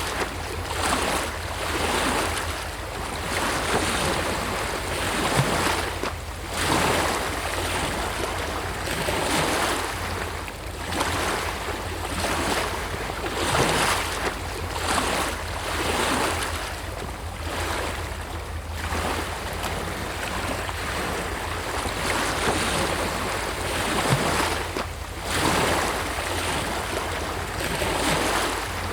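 Sea waves breaking and washing up on a shore, a continuous rushing that swells and falls in repeated surges every second or two.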